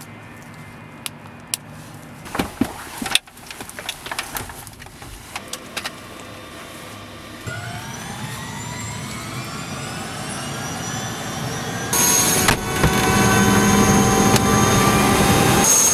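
Helicopter turbine engine starting up. Clicks and knocks come first, then a whine climbs steadily in pitch from about halfway in. From about three-quarters in it is much louder and turns into a steady high turbine whine.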